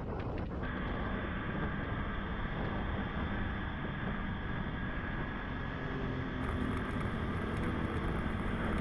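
Motorcycle running along at steady speed, with wind rushing over the microphone.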